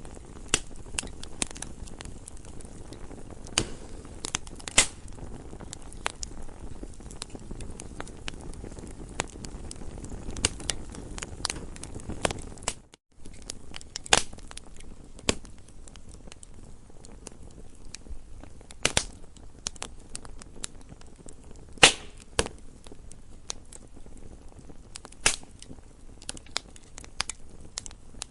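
Campfire crackling: irregular sharp pops and snaps over a low, steady rumble of burning wood, with a few louder pops. The sound drops out for a moment a little before halfway.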